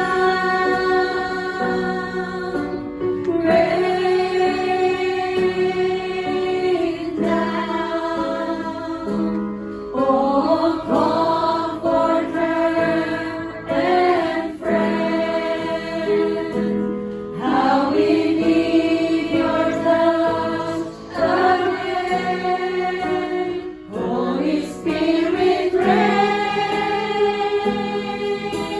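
A choir singing a slow Christian worship song over instrumental accompaniment, with long held notes.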